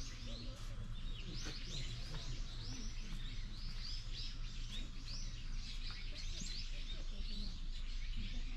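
Many small birds chirping continuously, short high notes overlapping several times a second, over a low steady background rumble.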